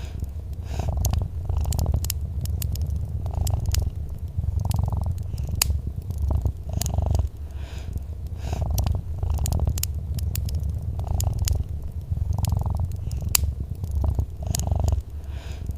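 Domestic cat purring steadily, swelling with each breath about every one to two seconds, over the scattered sharp crackles and pops of a wood fire in a fireplace.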